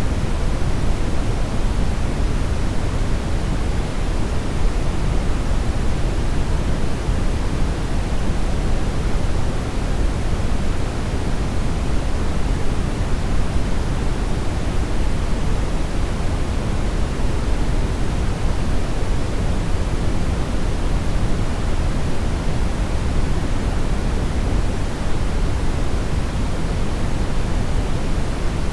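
Steady synthetic brown noise: an even, deep rushing hiss, strongest in the low end and falling off toward the highs, with no changes.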